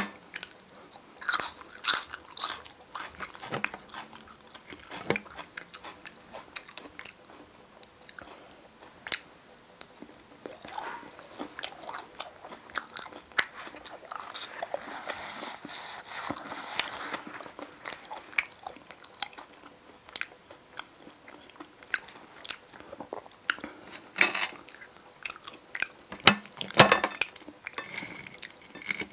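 Close-miked chewing of a mouthful of potato stew (qorma kachalo), with a metal fork clicking against a glass bowl now and then. The chewing grows denser and louder for a few seconds in the middle.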